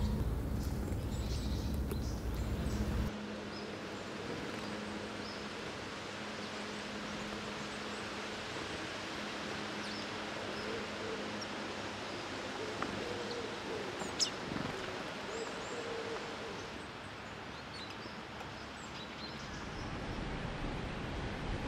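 Woodland ambience: a steady hiss of background noise with faint, scattered bird chirps and one sharp, high, falling bird call about two-thirds of the way through. A low rumble underneath cuts off suddenly about three seconds in.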